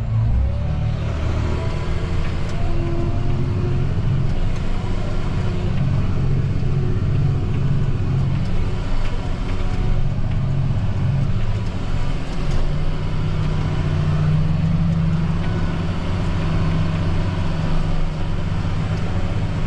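John Deere 8230 tractor's six-cylinder diesel engine running steadily under load, heard from inside the cab, with the engine note rising slightly about two-thirds of the way through.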